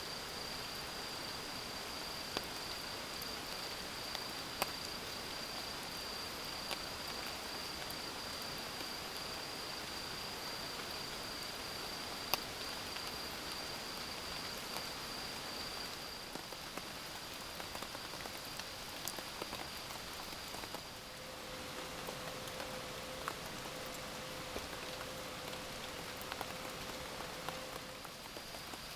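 Steady rain with scattered sharp drop taps. A thin, steady high-pitched tone runs through most of it, breaks off about two-thirds of the way in and returns near the end. While it is gone, a lower steady tone sounds for several seconds.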